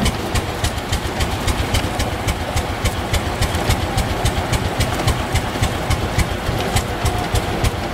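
An old engine running steadily at slow idle, each firing stroke a sharp, even knock about five times a second over a low rumble.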